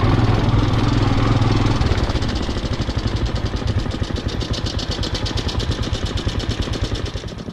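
Royal Enfield Himalayan's single-cylinder four-stroke engine moving the bike slowly over gravel. About two seconds in it settles to idle, with a steady, rapid, even pulse as the bike stops at the pump.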